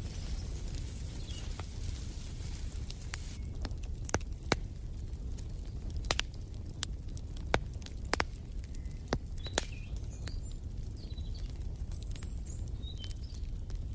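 Wood fire in a fireplace crackling over a low steady rumble, with scattered sharp pops that are loudest and thickest in the middle. Faint bird chirps come and go in the background.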